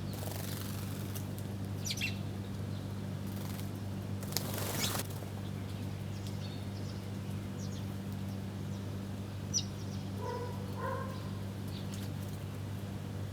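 Small birds feeding, with a few short, sharp chirps and calls and two rushes of wing flapping, one near the start and one about four seconds in. A steady low hum runs underneath.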